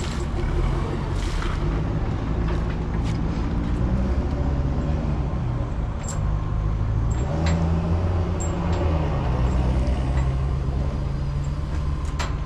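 A heavy engine runs steadily, its note picking up about seven seconds in. Several sharp metallic clicks and knocks come over it.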